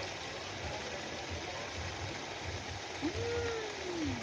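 Steady rushing noise like running water, with one short pitched sound about three seconds in that rises and then falls.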